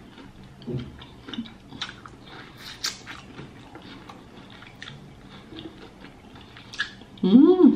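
Close-miked chewing of crispy fried chicken (KFC Hot Wings): scattered small crunches and wet mouth clicks. Near the end comes a short voice sound, louder than the chewing.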